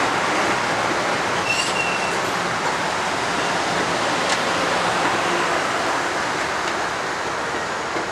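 Metro-North electric commuter train rolling past and pulling away, a steady rumble of wheels on rail that eases off slightly as the last car goes by. A brief high wheel squeal comes about a second and a half in.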